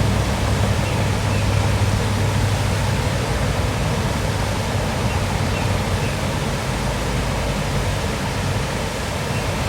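Waterfall: a steady rush of falling water. A low hum underneath fades away over the first few seconds.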